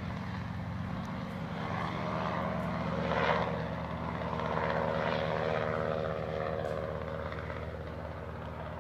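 Helicopter running during takeoff: a steady engine and rotor drone, with a brief swell of rushing noise about three seconds in.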